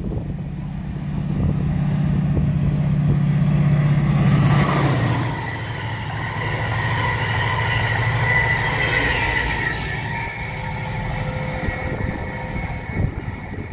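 Diesel passenger trains: a diesel engine runs with a steady low hum for the first few seconds, then a loco-hauled train passes close by with rail and wheel noise and high steady whines, which fade after about ten seconds.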